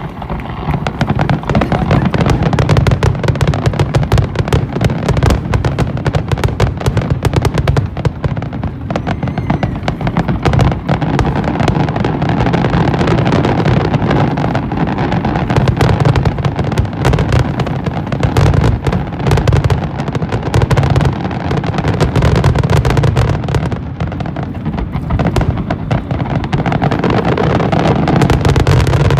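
Fireworks display: a dense, continuous barrage of shell bursts and crackling, many bangs a second throughout.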